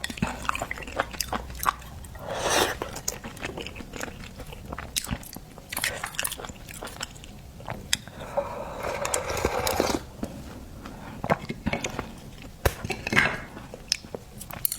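A person chewing and biting seafood up close, wet mouth sounds broken by many short sharp clicks, with a longer, louder stretch of noise from about eight to ten seconds in.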